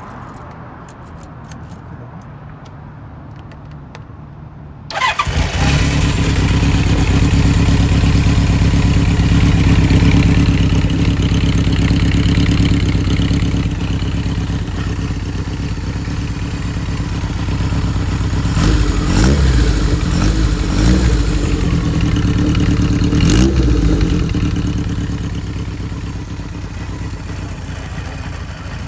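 Kawasaki Z1-R's air-cooled inline-four on short exhaust pipes and Keihin CR carburettors firing up about five seconds in and settling into a steady, loud idle. In the second half the throttle is blipped a few times, with the revs rising and falling, and the idle then eases down.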